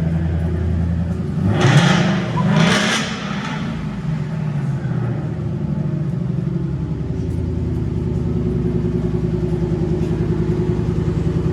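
Car engine idling, revved twice in quick succession about two seconds in, then settling back to a steady idle.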